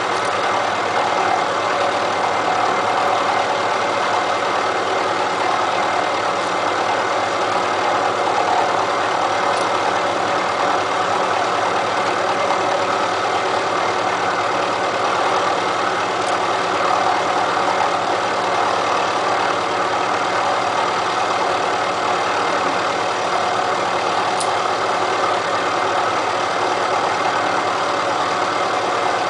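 Elliott Omnimill 00 small milling machine running steadily, its cutter taking a 20 thou cut across a face of railway-rail steel.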